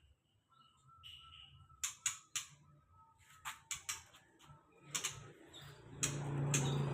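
Scattered sharp clicks and taps in a bird aviary, with faint thin whistle-like notes about a second in. A steady low hum comes in near the end.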